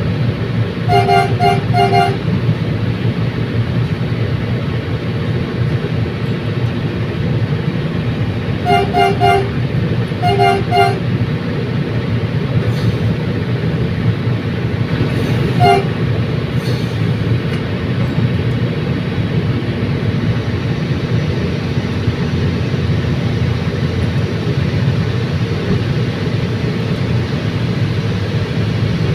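Commuter train running with a steady low rumble, its horn giving quick groups of three short toots near the start and twice more about a third of the way in, then one short toot just past halfway.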